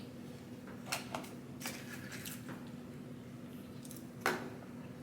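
Close-up eating sounds from a mukbang meal of fries and chicken nuggets: a few short wet clicks and smacks of chewing and biting, the loudest about four seconds in, over a steady low hum.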